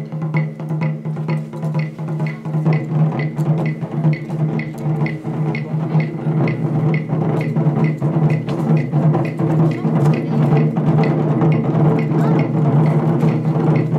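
Japanese taiko drums played by an ensemble in a steady, driving beat of about three strikes a second, over a sustained low resonant tone.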